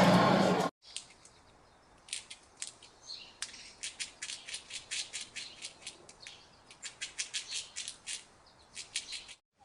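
A rapid, irregular series of short, sharp, high-pitched chirps or clicks from an animal, a few each second with brief pauses between the runs. It follows a louder sound that cuts off abruptly within the first second.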